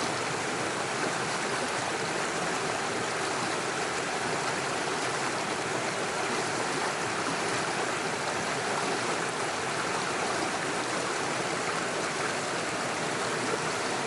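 Small forest stream running steadily over stones and small waterfalls, a continuous, even rush of water.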